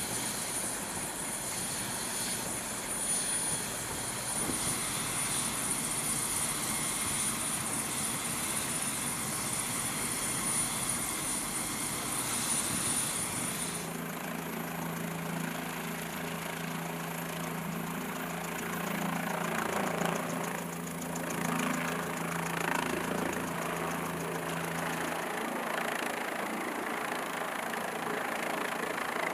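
Aircraft engine running steadily: an even rushing noise with a thin high whine. About halfway through the sound changes abruptly to a lower, steadier hum.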